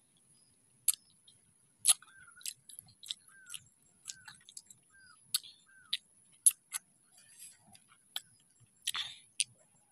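Close-up mouth sounds of biting and chewing a crunchy green carabaw mango: irregular sharp crunching clicks, with a noisier crunch about nine seconds in.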